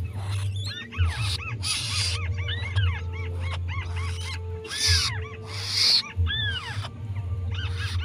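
Bird calls: quick, repeated short arched chirps that keep going, interrupted by several brief bursts of rustling as the rice stalks and net are handled.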